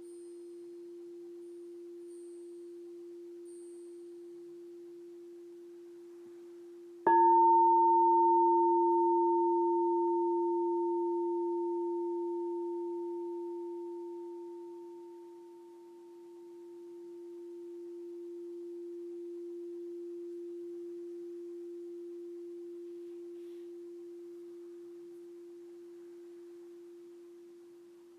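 Alchemy crystal singing bowl ringing with a near-pure, sustained tone. About seven seconds in it is struck again: a sudden loud ring with a faint higher overtone that slowly fades, dipping and swelling once as it dies away.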